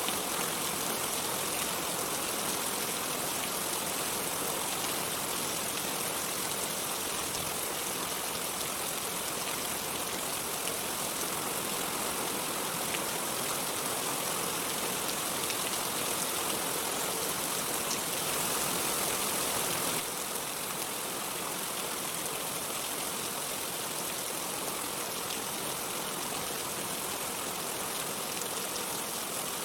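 Steady heavy rain: a dense hiss with the fine patter of many drops. About two-thirds of the way through it drops a little in level, as if a new stretch of recording began.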